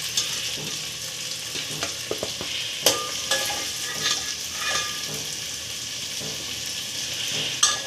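Fried mutton pieces sizzling in hot oil in a pan while a metal ladle scrapes and clinks against the pan, lifting the meat out. A sharp clink about three seconds in and another near the end stand out over the steady sizzle.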